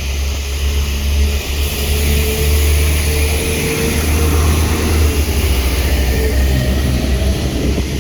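Northern Ireland Railways diesel train running past the crossing, a loud steady low rumble with a faint whine through the middle.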